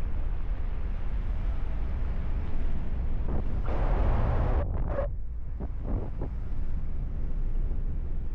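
Strong wind buffeting the microphone of a paraglider in flight, a steady low rumble. About three and a half seconds in it swells into a brighter rushing gust for about a second, then comes a few short gusts.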